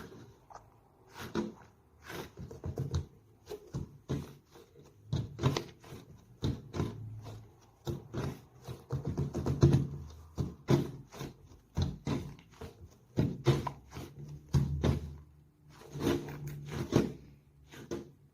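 Squishy toys being squeezed and handled by hand: irregular quick clicks and soft squelches, coming in clusters of several a second with short pauses between.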